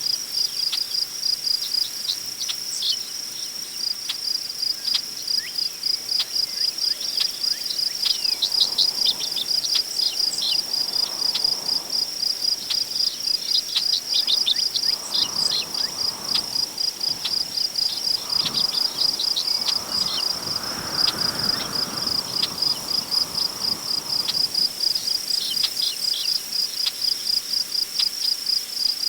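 Crickets chirping in a steady, rapid, even rhythm, with scattered short bird chirps. Tall prairie grass rustles in the wind, swelling in gusts through the middle.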